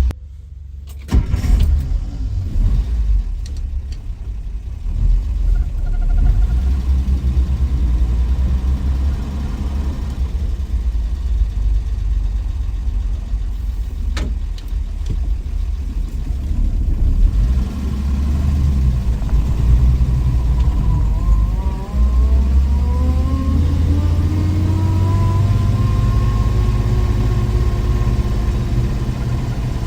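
1963 Willys Wagon's Tornado 230 overhead-cam straight-six running under way with a steady low rumble. About two-thirds of the way through, the engine note rises steadily as it accelerates, then levels off and holds.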